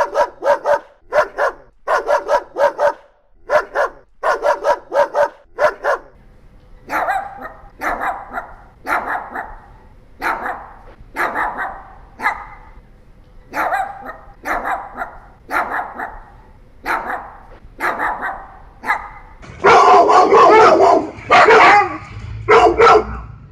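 Dogs barking, from several different dogs in turn: quick barks two or three a second at first, then slower barks about one a second from a second dog, then a louder, denser run of barking from another dog near the end.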